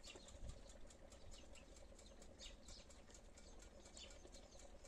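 Near silence: faint outdoor ambience with scattered faint high bird chirps and a faint steady hum underneath.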